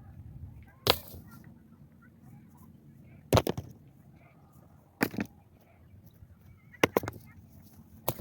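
A hand tool striking hard, a sharp blow every one and a half to two seconds, the fourth a quick double, typical of chopping or digging at earth and stone.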